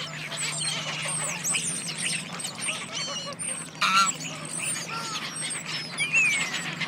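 Geese calling: many overlapping honks and higher, shorter calls, with the loudest honk about four seconds in, over a steady low hum.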